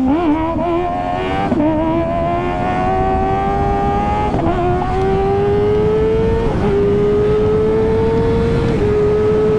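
Kawasaki ZX-10 superbike's inline-four engine under hard acceleration, its pitch climbing steadily and dipping briefly about four times as it shifts up through the gears.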